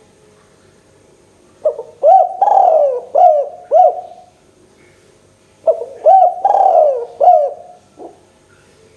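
Spotted dove (tekukur) cooing: two phrases of several rising-and-falling coos each, the second starting about four seconds after the first.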